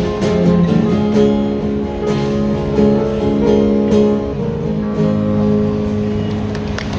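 Live acoustic guitar strumming chords with no singing, the instrumental outro of a song, easing slightly near the end.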